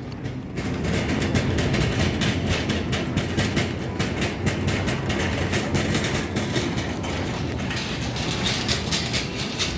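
Shopping cart rattling steadily as it is pushed across a store floor, its wheels and wire basket clattering with many fine clicks.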